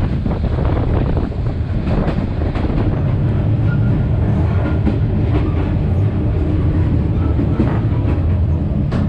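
Vietnam Railways passenger train running along the track: a steady low rumble of wheels on rails, with scattered irregular clicks.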